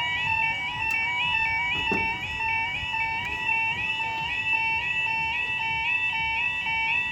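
Level crossing audible warning alarm sounding: a steady two-tone electronic yelp that alternates rapidly between two pitches, warning that a train is approaching and the barriers are coming down.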